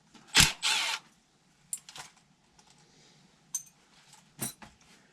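Sheet-metal blower parts being handled: a sharp knock and a short scrape, then a few scattered metallic clicks and clinks, one with a brief ring.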